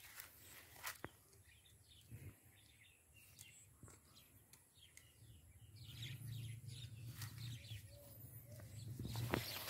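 Faint bird chirps: many short high calls repeating through the middle, with a few soft clicks of handling. A low steady hum comes up in the second half.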